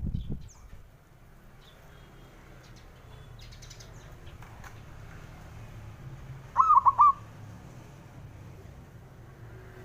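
Zebra dove (perkutut) giving one short cooing call of about four quick notes, a little over halfway through, over low steady background noise. A low thump at the very start.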